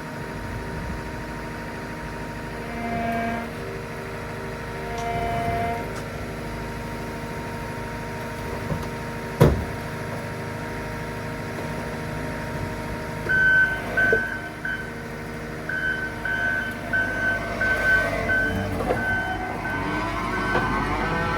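New Holland C362 skid steer's diesel engine running steadily, with a single sharp clunk about halfway through. From about two-thirds of the way in, a backup alarm beeps repeatedly as the machine reverses.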